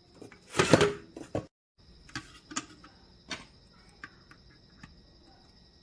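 Electronics rework equipment giving off a steady high-pitched whine, with scattered light clicks of tools on the circuit board, while the shorted reverse-polarity protection chip is being removed. A brief loud handling noise comes about half a second in.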